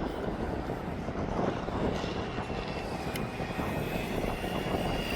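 Losi Promoto electric RC dirt bikes running, a steady mechanical hum with a thin high whine coming in about halfway through.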